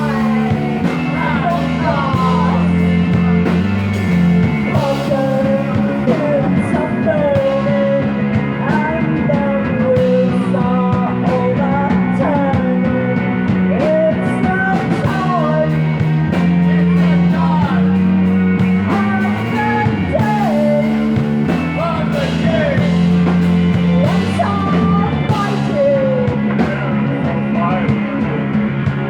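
Psychedelic rock music: a passage with no words, where a melodic lead line bends and slides in pitch over steady, held low chords.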